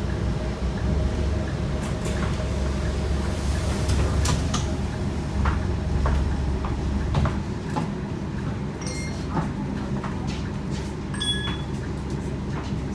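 Interior of a Scania K230UB bus in motion: its 8.9-litre five-cylinder diesel running with a deep rumble under load, which eases off about seven seconds in, with rattles and clicks from the body throughout.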